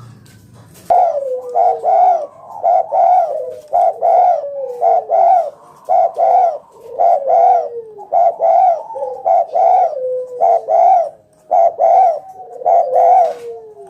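Spotted dove cooing loudly in a rapid run of short coos in twos and threes, starting about a second in. Lower coos slide down in pitch beneath them.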